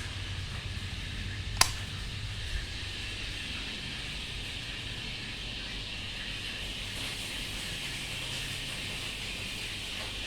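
48-inch Caribbean ceiling fan running with a steady low hum and airy hiss, with a single sharp click about a second and a half in.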